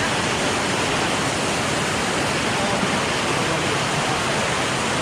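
Waterfall's rushing water close by, a loud, steady hiss of cascading water.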